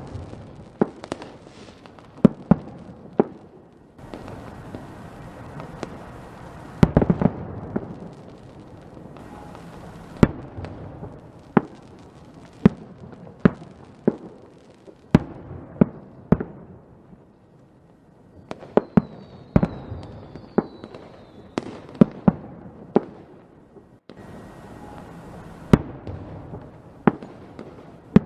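Fireworks going off: a string of sharp bangs and pops, a few seconds apart and sometimes in quick clusters, over a steady crackle. About two-thirds of the way through, a brief whistling fizz rises among the bangs.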